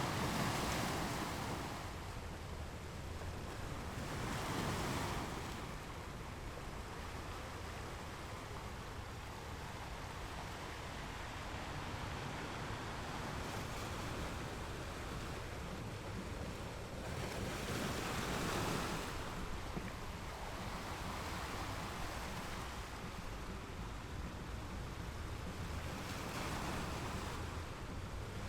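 Ocean waves breaking against rocks, with a steady wash of surf and a swell of louder breaking every few seconds.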